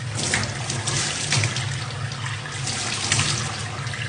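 Water running steadily, like a tap into a sink, with uneven swells in the splashing over a low hum.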